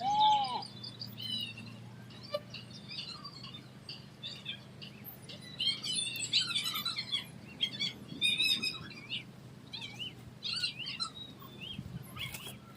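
Small birds chirping busily, many short high calls overlapping throughout. A louder, lower arched call comes right at the start. A faint steady hum runs underneath.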